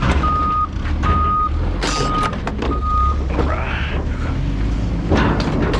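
A heavy vehicle's backup alarm beeps four times at an even pace over a low diesel engine rumble, with sharp metallic clanks and clatters around it.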